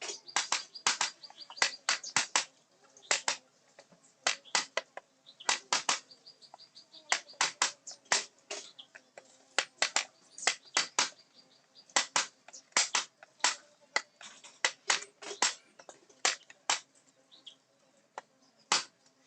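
Carving chisel driven into teak wood by a mallet: sharp, irregular taps, often two to four in quick succession, some with a short metallic ring.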